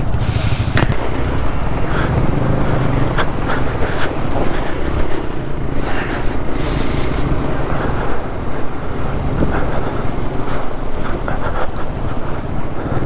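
Hero Xpulse 200 motorcycle's single-cylinder engine running under way, mixed with heavy wind noise on the microphone and scattered sharp clicks.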